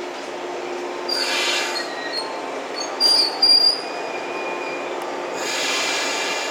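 Electric commuter train moving along a station platform, its running noise steady, with bursts of high-pitched squealing from the wheels and brakes about a second in and near the end, and short loud squeals about three seconds in.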